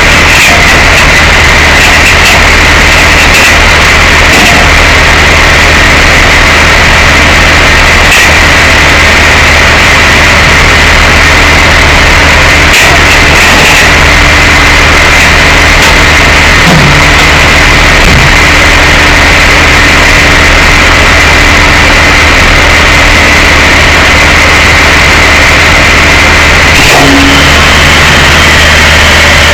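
Tow truck engine running with a loud, steady drone, and a few faint clicks and short squeaks over it.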